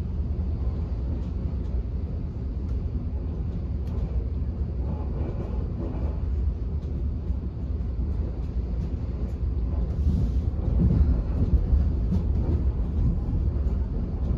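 Passenger train running, heard from inside the carriage: a steady low rumble of wheels on rails with faint scattered clicks, growing a little louder about ten seconds in.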